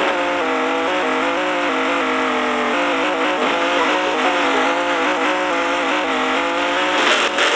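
Drag race car engines held at high revs, their pitch wavering slightly up and down; about seven seconds in a harsh rush of noise breaks in.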